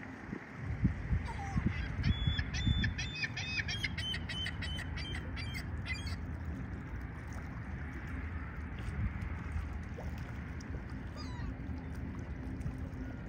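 A water bird calling in a quick run of harsh, repeated notes for a few seconds in the first half, over a low rumble of wind on the microphone and the steady drone of a speedboat running past on open water.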